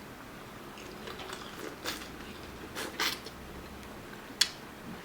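Close-miked eating sounds: soft chewing with a few sharp, wet mouth clicks, the clearest about two, three and four and a half seconds in.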